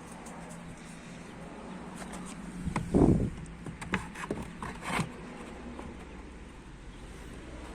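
Handling noises during work on a car: a dull thump about three seconds in, followed by a run of sharp clicks and knocks.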